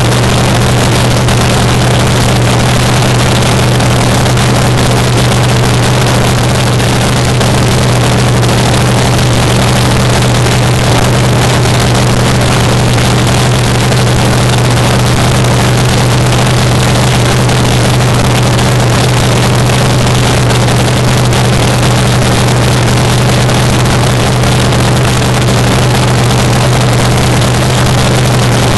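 Nitro-burning engine of a 1949 Fiat fuel altered drag car idling loud and steady, the cackle of a fuel car at a cacklefest, with no revving.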